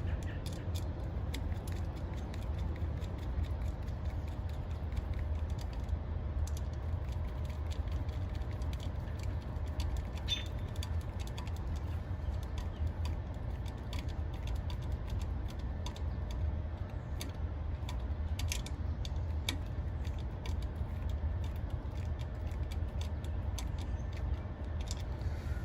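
Faint scattered clicks and small rattles of hand tools tightening the strain-relief clamp on a condenser fan motor's three wires, over a steady low rumble.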